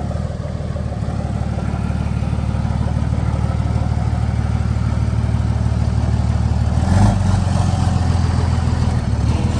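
Tow truck engine running steadily at idle, growing slightly louder over the first few seconds, with a short clunk about seven seconds in.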